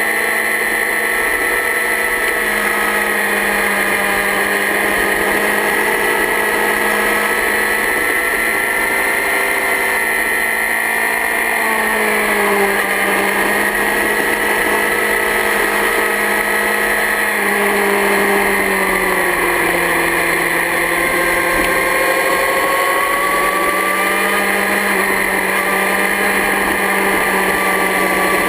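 Yamaha R6 inline-four engine running at high revs under way, its pitch dropping off about twelve seconds in and again about eighteen seconds in, then climbing back as the throttle opens.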